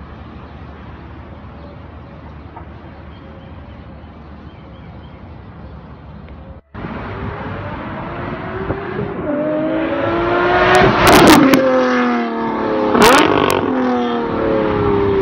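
Low, steady street noise, then a car's engine accelerating hard through the gears. Its pitch climbs and drops twice, with sharp cracks at the gear changes, before falling away as the car passes.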